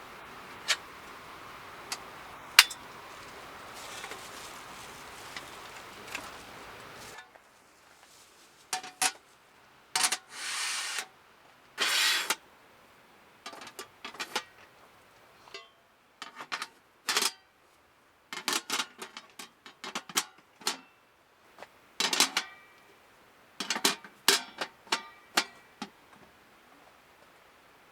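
Scattered clicks, knocks and short rustles of things being handled, irregular and uneven. For the first seven seconds they sit over a steady background hiss, which then drops away suddenly.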